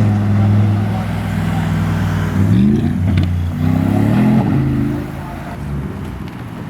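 Car engine idling, blipped twice near the middle so that its pitch rises and falls back each time.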